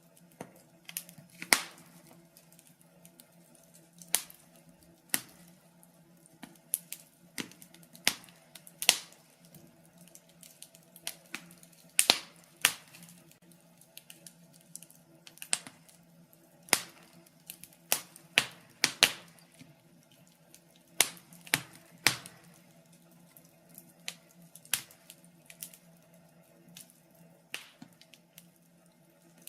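Wood logs burning in a fireplace, crackling with irregular sharp pops, some much louder than others, over a faint steady low hum.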